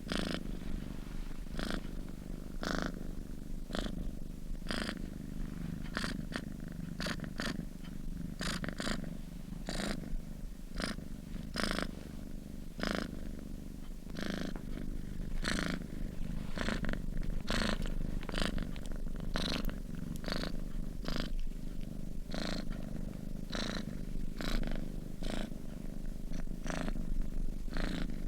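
Domestic cat purring steadily while asleep, a continuous low rumble with short clicks about once or twice a second.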